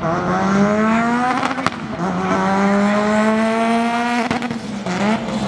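Drag car's engine at full throttle accelerating down the strip, its pitch climbing and falling back at upshifts about two seconds in and again just after four seconds.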